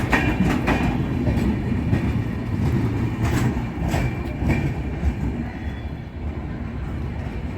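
Passenger train coaches rolling by with a steady low rumble, and a few sharp clanks of wheels over rail joints near the start and again around the middle.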